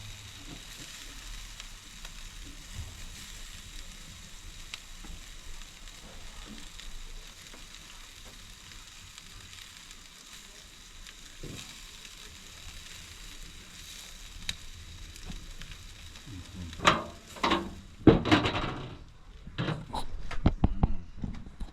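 Jerk chicken legs sizzling on a barbecue fire, a steady hiss. Near the end a run of loud knocks and clatters breaks in.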